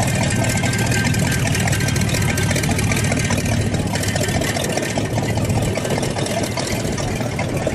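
A vehicle engine idling steadily under a dense, continuous background noise.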